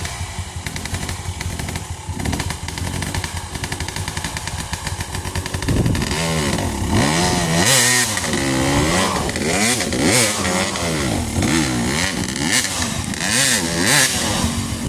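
Trail motorcycle engines running, then from about six seconds in revving hard over and over, the pitch rising and falling repeatedly, as a bike labours to climb a slippery muddy hill.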